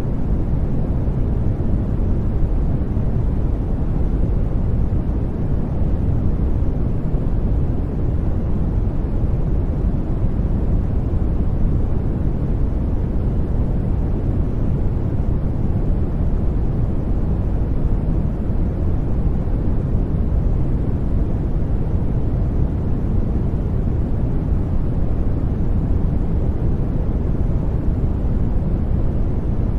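Steady sleep-aid noise: an even, unbroken hiss with most of its weight in the low tones, a deep rumble rather than a bright hiss.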